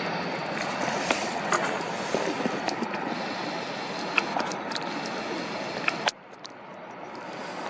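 Wind buffeting the microphone over the fading rush of an airliner's engines, with scattered clicks. The sound drops away abruptly about six seconds in, then slowly builds again.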